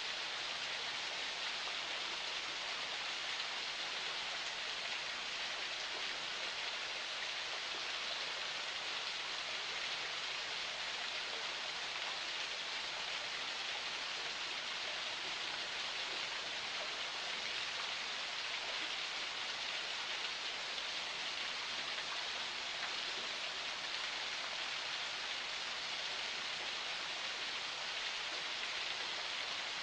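Water of a small forest spring flowing, a steady, even rush with no change throughout.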